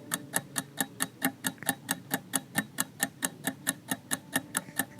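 Quiz countdown timer sound effect: a clock ticking quickly and evenly, about five ticks a second, over a faint steady low tone.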